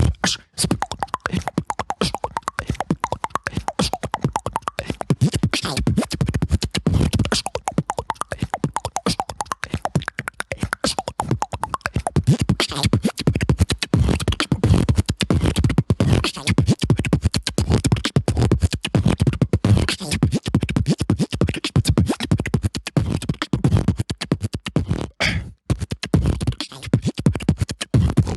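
Solo beatboxing: a fast, dense run of vocal kick drums, snares and clicks over a deep bass line, with scratch-like vocal effects.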